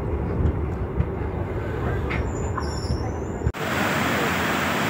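Low rumble of a moving train heard from inside the coach, which cuts off abruptly about three and a half seconds in to the steady, loud rushing of muddy floodwater.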